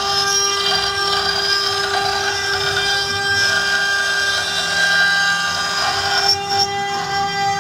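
CNC router spindle running with a steady high-pitched whine while its cutter mills a wooden column turned on a rotary axis, with a rough cutting rasp that grows harsher about six seconds in.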